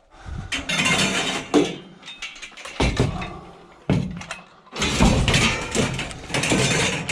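Scrap metal clattering and scraping as it is wrestled apart and dragged by hand, in several noisy bouts with sharp metallic knocks.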